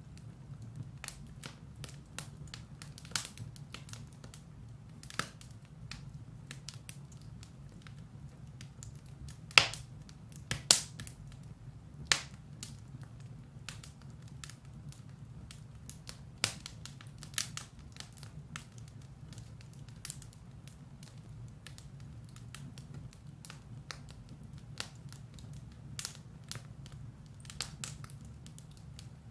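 Firewood burning in a fireplace, crackling with irregular sharp pops, a few louder ones near the middle, over a low steady rumble.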